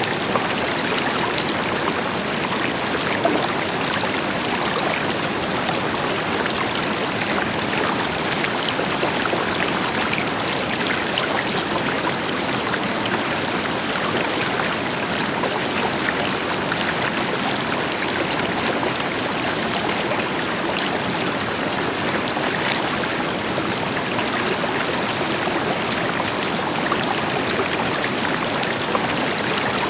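River water flowing steadily over rocks, a constant rushing and splashing with a distant waterfall adding a deeper even hiss beneath it.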